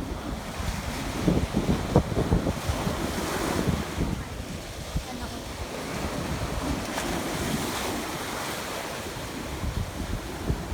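Ocean waves washing onto a beach, swelling and falling, with wind buffeting the microphone in low gusts.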